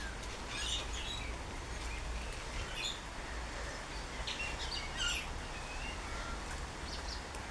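Rainbow lorikeets giving short, high-pitched calls at scattered moments, over a steady background hiss.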